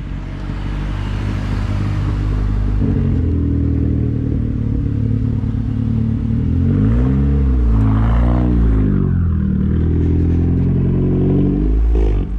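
Turbocharged 2.3-litre four-cylinder engine of a 600+ hp Mazdaspeed3 running at low revs as the car rolls up and turns into a driveway, with the revs rising and falling a few times about seven seconds in.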